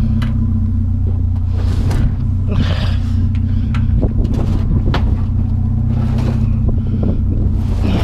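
Vehicle engine idling with a steady low hum. A few brief knocks and clatters sound over it.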